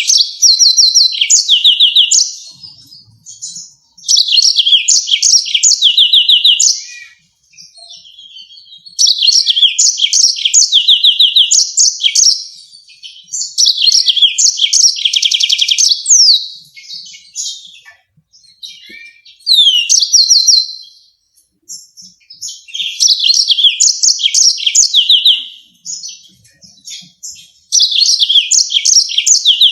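Yellow-fronted canary singing: fast trilled phrases of repeated high notes, each running a few seconds, with short pauses between them.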